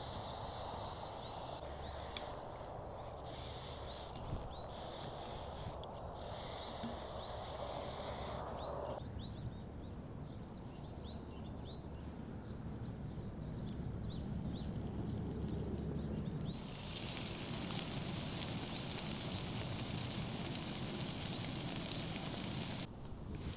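Outdoor ambience: a steady hiss and rustle with faint small chirps, changing abruptly at edit cuts.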